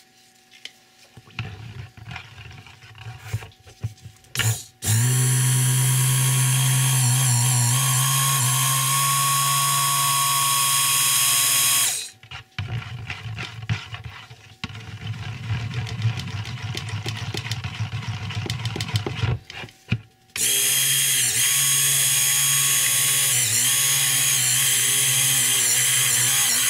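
Stick blender motor running in two long bursts, about seven and six seconds, blending cold process soap batter. Between the runs there are light knocks and scrapes of the blender in the container.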